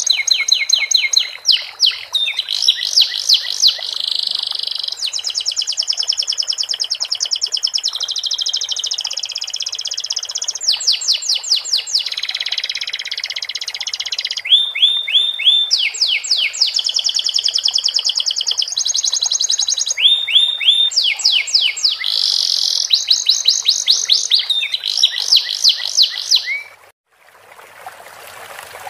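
Domestic canary singing a long, loud song of rapid repeated trills, changing phrase every second or two. The song is filled with learned sikatan londo flycatcher phrases. The song cuts off about 27 s in and gives way to the steady trickle of running water.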